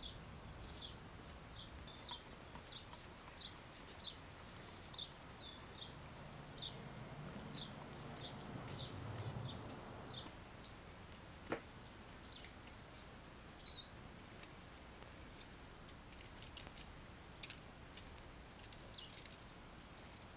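Faint small bird chirping: a short, falling call repeated every half second or so through the first half, then only now and then. A single sharp knock about halfway through.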